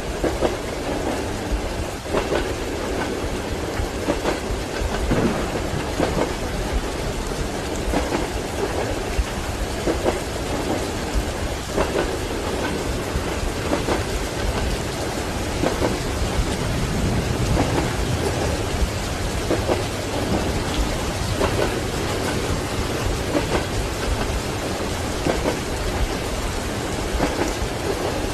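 Steady heavy rain and rumbling thunder over a train's wheels clacking on the rail joints, as heard inside a train compartment. The thunder swells a little past the middle.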